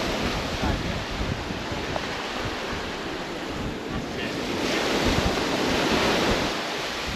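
Ocean surf washing in, with wind buffeting the microphone; the surge swells louder about five seconds in.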